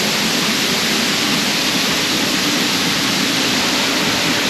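Sgwd yr Eira waterfall: a steady, loud rush of falling water, heard close up from the ledge behind the curtain of water.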